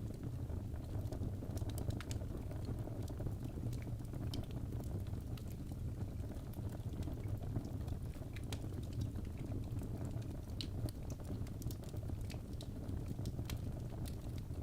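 Wood fire of burning logs crackling in a fireplace: a steady low rumble of flames with frequent small sharp pops and snaps scattered irregularly throughout.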